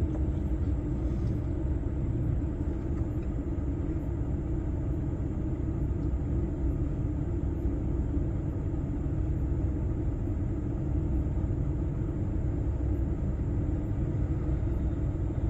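Steady low rumble of a lorry on the road, heard from inside the cab: engine drone and tyre noise at cruising speed.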